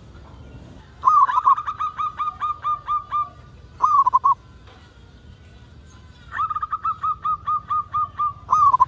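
Zebra dove (perkutut) singing: two phrases of about ten quick, evenly spaced cooing notes, each ending in a short rolling trill, with a pause of about two seconds between them.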